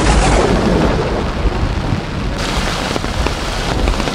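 Heavy rain pouring down and rainwater running over the ground, with a steady low rumble underneath.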